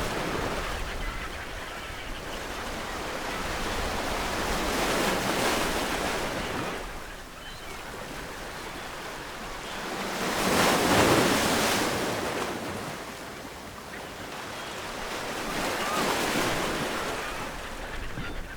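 Ocean waves breaking on a shore, each surge of surf rising and falling away, about every five to six seconds.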